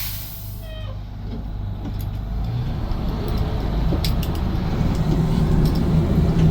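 1988 Amertek 4x4 fire truck's engine running. An air hiss dies away in the first second, then the engine grows louder from about two seconds in as the truck moves off with its pump engaged for pump-and-roll. A few light clicks sound over it.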